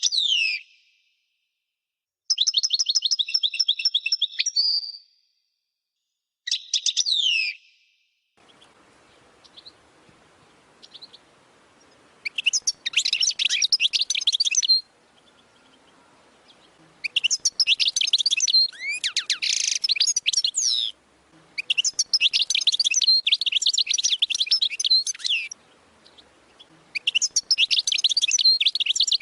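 European goldfinch singing in the 'wadani' song style: phrases of fast, high twittering a few seconds long, with short pauses between them. From about a quarter of the way in, a faint hiss runs under the song.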